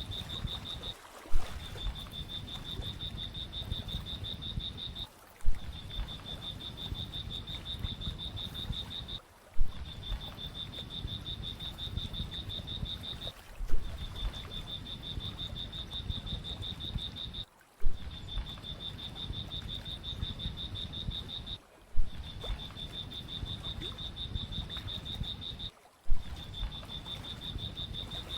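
A high, rapid, pulsing animal trill, steady in pitch, over a low rumbling background. About every four seconds the sound drops out briefly and comes back with a sharp click, like a short recording played over and over.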